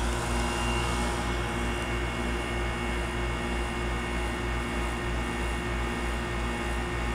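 Daikin DZ14SN heat pump outdoor unit running steadily in heat mode. Its Copeland scroll compressor hums and its four-blade fan rushes, with a faint high whine over a low throb.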